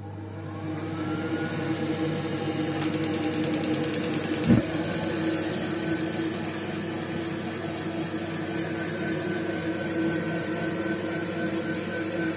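Baxi gas boiler starting: a whir rises in pitch, rapid clicking runs for about four seconds, and a single loud knock comes about four and a half seconds in, then the boiler runs steadily. The knock is one of the unexplained knocks the owner hears from the boiler after it stood idle for two months.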